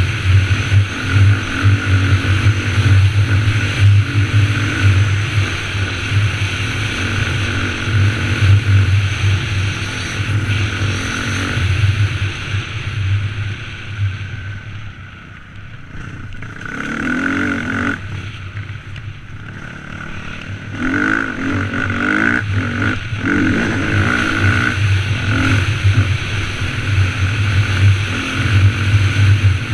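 Dirt bike engine running and revving on the trail. It drops back about halfway through, then revs up again with rising and falling pitch.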